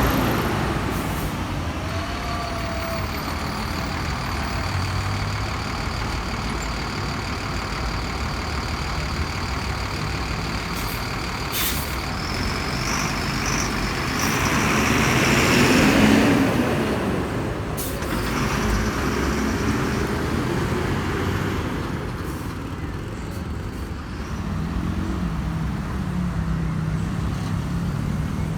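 Busy city-street traffic with heavy diesel vehicles such as buses and trucks going by. One passes close and loudest about halfway through, with short sharp hisses just before and after it.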